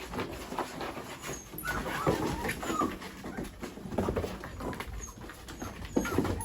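Mini Goldendoodle puppies playing: a steady patter of scuffles and light knocks, with a few short high yips and whines about two seconds in.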